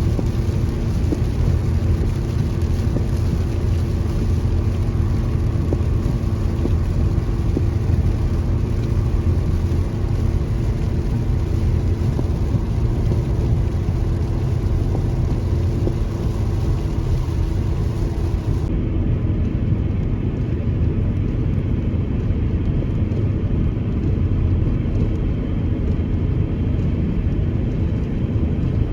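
Steady low drone of a car being driven: engine and tyre noise on the road, even and unbroken.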